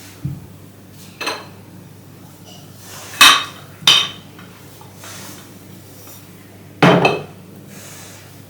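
Dishes and kitchenware being handled and set down: five separate clattering knocks, the loudest about three seconds in, again a second later and once more near the end, over a faint steady low hum.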